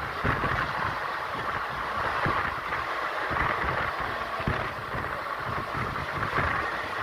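Express train coach running: a steady rumble and rattle from the running gear, with wind buffeting the microphone.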